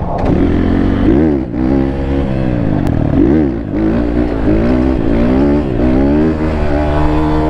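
Apollo pit bike engine being ridden, the revs climbing and dropping again several times as the throttle is opened and eased off.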